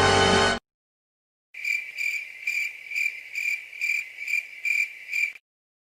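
Music cuts off just after the start; after a second of silence, crickets chirp steadily for about four seconds, about two chirps a second, then stop abruptly. This is the stock crickets sound effect used as the awkward-silence gag.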